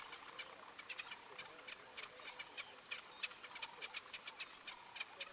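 Ground-nesting birds calling: short, sharp, high-pitched notes repeated several times a second, uneven in timing.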